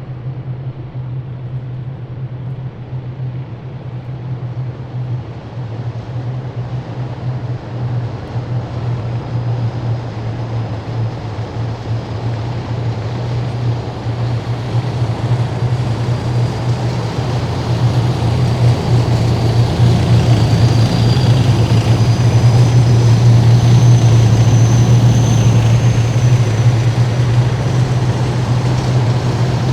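Heavy military vehicle engines running in a column, a deep steady drone growing louder as the vehicles approach. A high thin whine joins in about two-thirds of the way through.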